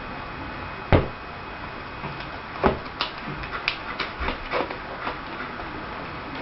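Irregular knocks and light thumps on a wooden surface in a small room. One louder thump comes about a second in, then a scatter of quicker taps and knocks.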